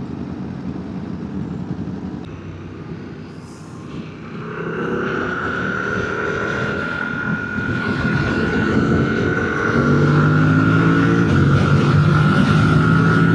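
Motorcycle engine and road-and-wind noise while riding. From about four seconds in the engine note climbs steadily with a steady whine above it, getting louder as it speeds up.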